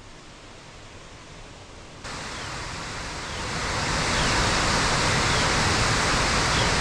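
Steady rush of falling water from a waterfall. It is quieter at first, jumps louder abruptly about two seconds in, then grows louder still.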